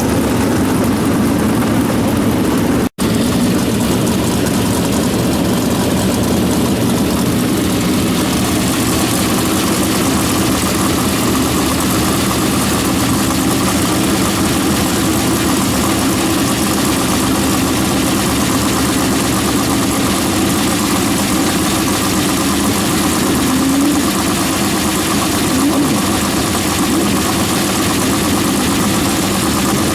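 Race car engines running steadily, with no big revs, and a momentary dropout in the sound about three seconds in.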